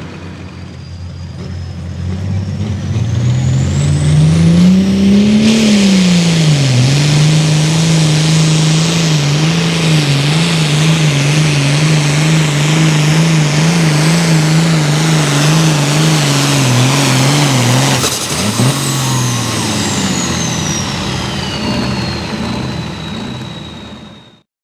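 Turbocharged diesel pulling tractor at full throttle under load, its engine note climbing and then holding with a fast wobble while the turbo whistles high above it. About eighteen seconds in the engine is shut off and the turbo's whine falls away over the last few seconds.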